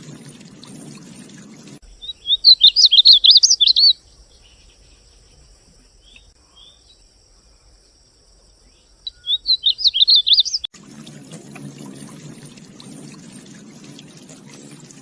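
Painted bunting singing: two bursts of quick, high warbling, each about two seconds long and several seconds apart. Before and after the song there is a steady rushing noise, like running water.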